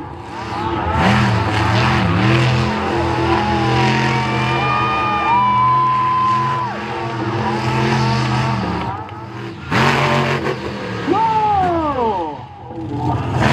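Monster truck engines revving hard, rising and falling in pitch, with a loud crash-like burst about ten seconds in.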